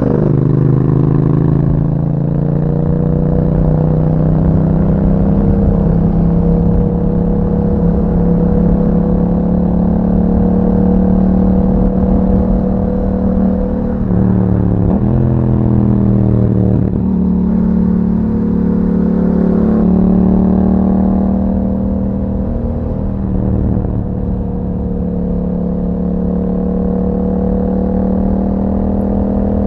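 2021 Yamaha MT-07's 689 cc parallel-twin engine breathing through an aftermarket Akrapovic exhaust, running steadily while riding, its pitch wavering with the throttle. Around the middle the engine note briefly drops and rises again, as in a gear change, over a low rumble of road and wind.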